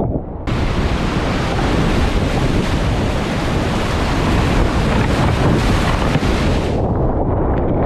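Rushing river water, a loud even hiss that starts abruptly about half a second in and cuts off near the end, over heavy wind rumble on the microphone.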